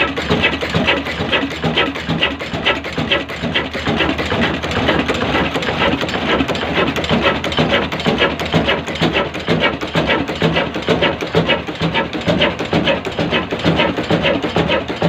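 Large slow-speed Kala single-cylinder oil engine running, with a steady, even mechanical clatter several beats a second.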